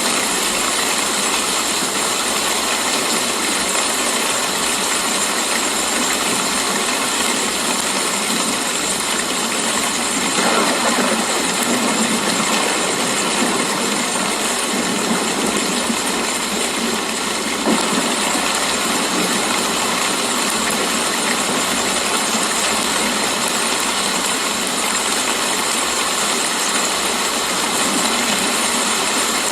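Steady rain falling: an even hiss that holds constant throughout.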